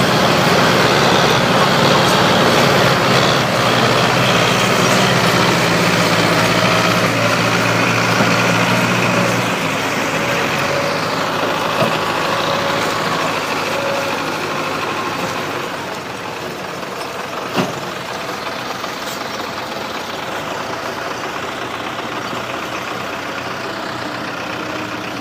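Tractor engine running steadily. It is loudest for the first ten seconds or so, then quieter as it fades, with one sharp knock about 17 seconds in.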